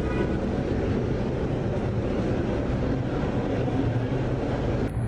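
Steady low rumble and hum of subway station background noise.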